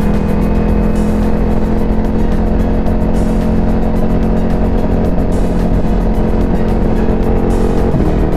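Ducati Multistrada V4 Pikes Peak's V4 engine running at a steady cruise, with wind noise over it. Near the end the even engine note breaks off.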